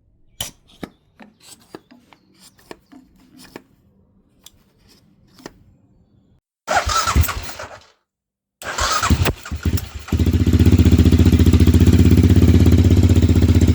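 A few light clicks, then the starter cranks the Aprilia Pegaso 650's single-cylinder engine in two short bursts, and about ten seconds in it catches and runs steadily. It starts only because the sticking carburettor diaphragm has been moved free, a temporary fix.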